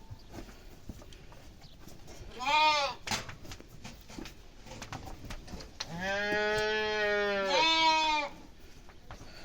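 Small livestock bleating: a short call about two and a half seconds in, then one long, steady call of about two seconds near the end that steps up in pitch just before it stops.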